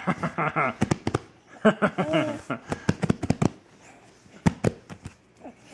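Irregular sharp knocks, like hands banging on something, with a baby squealing and babbling in between.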